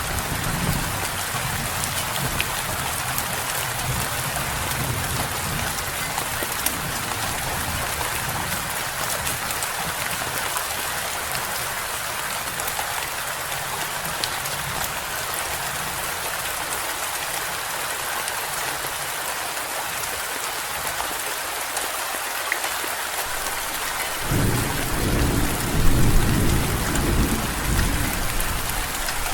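Steady rain falling. About four-fifths of the way through, a low rolling rumble of thunder swells in and goes on to the end.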